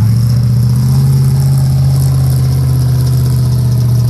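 Chevrolet 6.2 L V8 diesel in a K5 Blazer, running loud and steady through a glasspack muffler. Its pitch rises a little in the first second, then holds.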